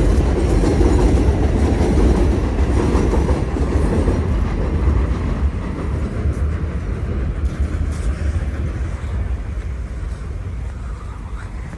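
Elevated subway train passing on the overhead tracks, loud at first and gradually fading as it moves away.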